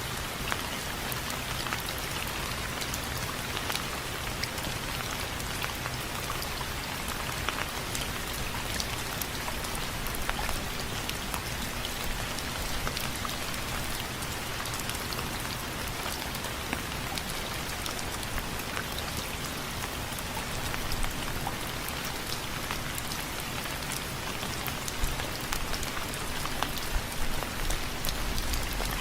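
Steady rain falling on a window frame, with many individual drops ticking against it. A few heavier drop hits come near the end.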